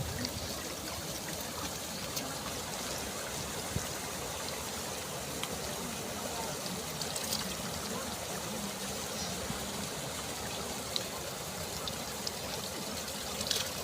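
Stream water running and trickling steadily, with a few light splashes.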